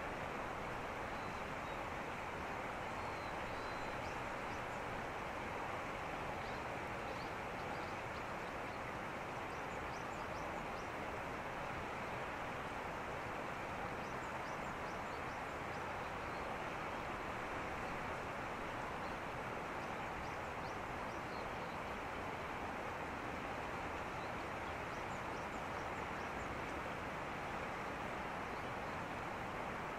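Steady outdoor background rush with faint bird chirps now and then.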